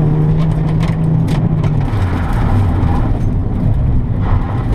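Honda Civic rally car's engine heard from inside the cabin, holding steady revs and then dropping to lower revs about two seconds in, with scattered sharp ticks and rattles.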